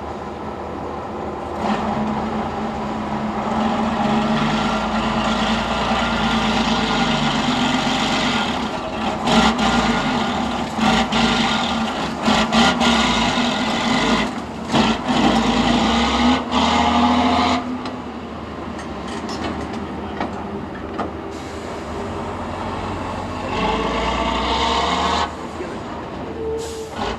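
Competition trial truck's engine working hard under load, with several sharp knocks and bangs in the middle. The engine eases off about two-thirds of the way through, then picks up briefly again near the end.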